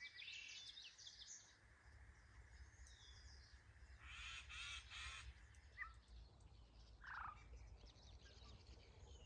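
Several wild birds calling faintly: a mix of short high chirps and trills, with a lower call about seven seconds in, over a steady low rumble.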